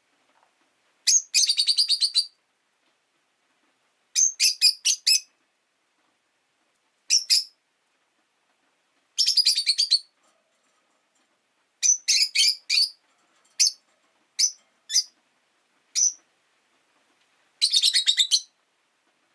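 Pet rosy-faced lovebirds (Agapornis roseicollis) chirping in short bursts of rapid high-pitched chirps, with pauses of one to two seconds between bursts.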